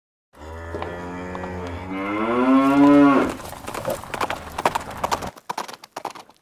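A bull bellowing: one long low bellow that rises in pitch and swells to its loudest near the end, about three seconds in. A quick run of thuds follows and thins out.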